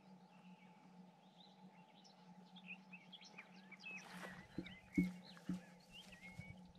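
Small songbirds chirping and whistling in quick, short phrases over a faint steady hum. From about four seconds in come a few sharp clicks, the loudest about five seconds in.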